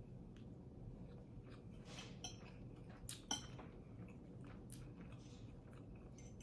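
Quiet eating sounds: a few faint, scattered clicks and taps of a utensil against a food container or plate, over a low steady background.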